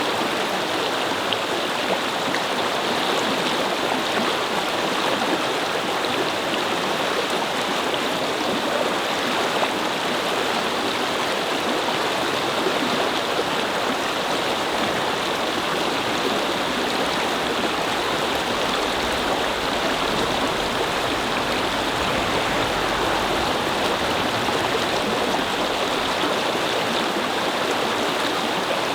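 Brook flowing over stones, a steady babbling rush of water. A faint low rumble swells and fades about two-thirds of the way through.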